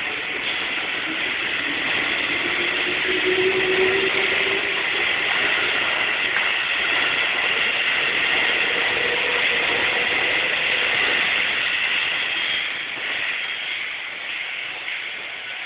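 Electric train passing close by, its running noise building over the first few seconds, holding, then fading after about twelve seconds, with a tone that rises in pitch a second or so in.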